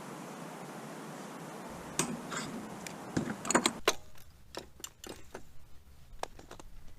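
A steady hiss cuts off suddenly about four seconds in. Scattered light metallic clicks and clinks of tools and small parts being handled run through the second half.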